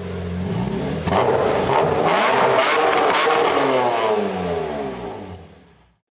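BMW X6 40d's twin-turbo diesel straight-six accelerating hard under load, its pitch climbing for several seconds, then fading away near the end.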